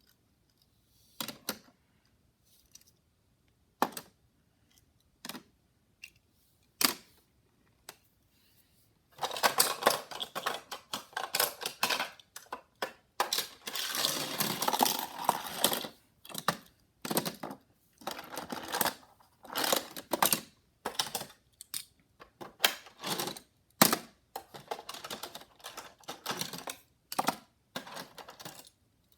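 Hot Wheels die-cast toy cars being handled: a few scattered sharp clicks and knocks, then from about nine seconds in a dense clatter and rattle, breaking into short bursts of clicking for the rest of the time.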